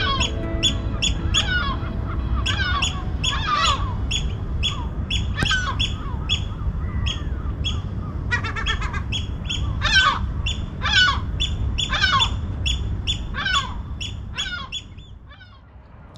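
Birds calling: sharp, downward-sweeping calls repeated several times a second, with a quick rattling cluster about eight seconds in, over a low rumble of wind. The calls thin out and stop near the end.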